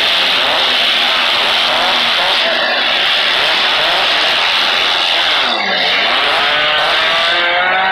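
Engines of several 4- and 6-cylinder demolition derby cars revving hard, their pitch rising and falling as they push and ram each other. A rising whine stands out near the end.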